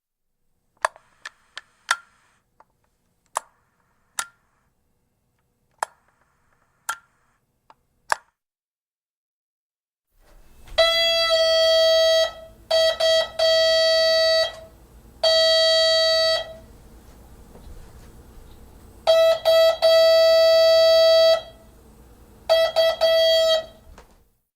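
Apartment door intercom: a string of sharp clicks from its buttons or handset, then receiver line hum with the door buzzer sounding in six separate bursts, the longest about two seconds.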